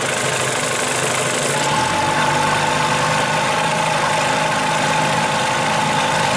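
1975 Evinrude 40 hp two-stroke twin-cylinder outboard motor running at low speed just after starting. About two seconds in its note changes and a steady whine comes in and holds.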